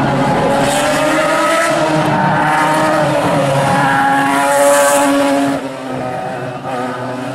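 Ferrari Formula One car's engine running at high revs, its pitch rising and falling as the car is revved and shifted, dropping away a little after five seconds in.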